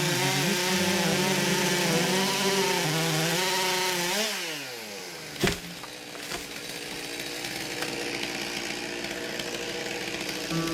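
Chainsaw engine running at high revs, its pitch wavering, then dropping away steeply about four seconds in. A single sharp knock follows a second later, then a quieter steady running sound.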